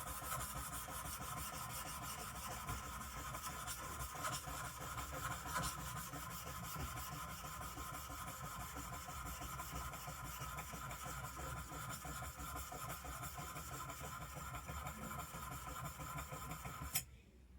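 Steel plane blade rubbed flat, back down, on an oiled medium India sharpening stone: a steady gritty scraping as the back of the blade is flattened. It stops abruptly near the end.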